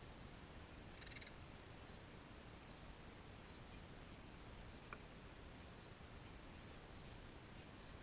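Near-quiet outdoor background with scattered faint small-bird chirps. One brief, clearer chirp comes about a second in, and a single sharp tick comes near the middle.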